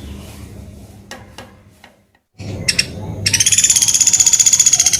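Pelatuk beras woodpecker calling: a couple of short high notes, then a loud, fast buzzy trill of about a dozen notes a second starting a little past the middle. Before it there are faint clicks and a low hum, with a short dropout to silence.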